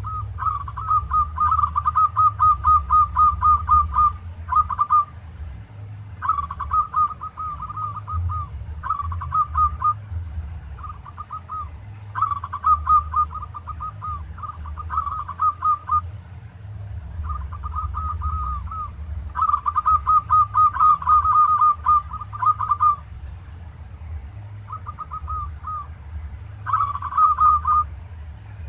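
Local zebra dove (perkutut) cooing: runs of quick staccato coo notes, about six or seven a second, in phrases of one to four seconds with short pauses between.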